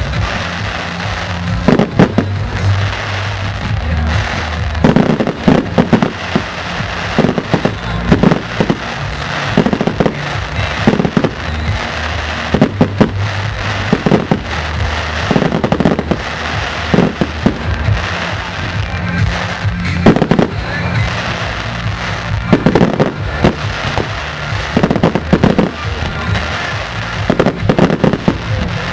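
Professional display fireworks heard from about 150 m: shells bursting in a steady run of bangs, one every second or so, with crackle between them. Music plays underneath.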